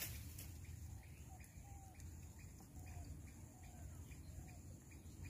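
Faint bird chirps, a few short calls scattered across a few seconds, over a low steady outdoor background.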